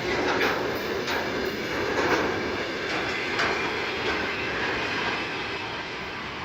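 Freight train wagons rolling past on the track: a steady rumble with occasional wheel clacks, slowly fading.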